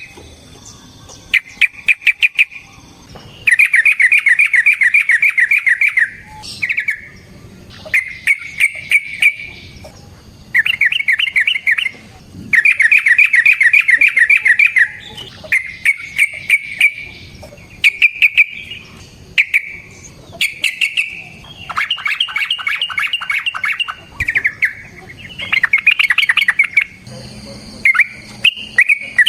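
Yellow-vented bulbul singing: loud bursts of rapid, rattling trilled notes, one phrase after another, each lasting about half a second to two seconds with short pauses between.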